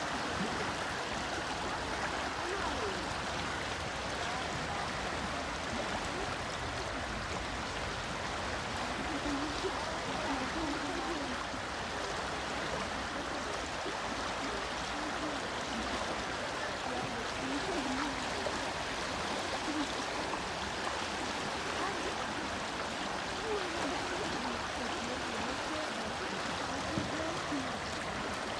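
A small river running high in spring flood, its water rushing steadily, with a few faint short sounds rising now and then above the flow.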